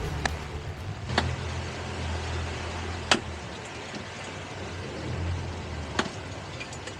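Boat engine running steadily, with a few sharp knocks about a second in, near the middle and near the end.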